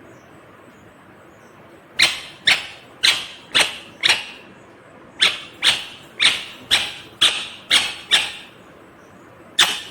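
Indian ringneck parakeet giving a run of short, loud, sharp calls, about two a second, in bouts separated by brief pauses; the calls start about two seconds in.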